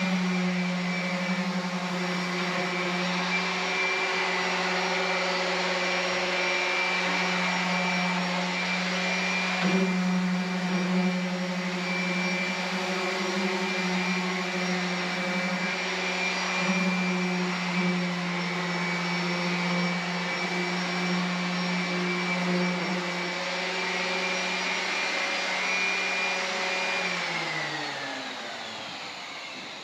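A motor running steadily with a constant hum, then switched off near the end and winding down as its pitch falls away.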